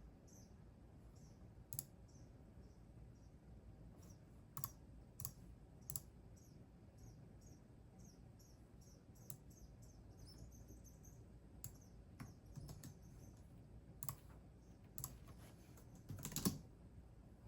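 Computer keyboard being typed on slowly: scattered single keystrokes and short pairs, with a quick run of keys near the end that is the loudest moment. Faint high chirps sound throughout.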